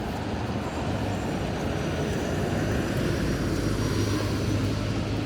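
Road traffic: vehicle engines running with a steady low hum that grows a little stronger near the end.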